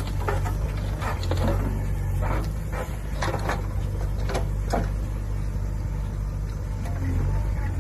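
Swaraj 744 FE tractor's diesel engine running steadily, with short sharp knocks or clatters at irregular intervals over it.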